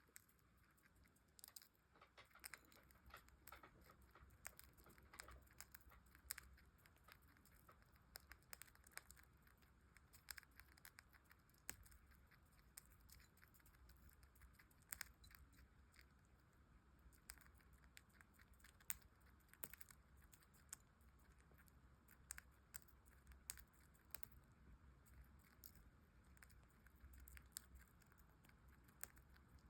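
Budgerigar eating, its beak pecking and nibbling at food in a faint, irregular string of small clicks and crunches.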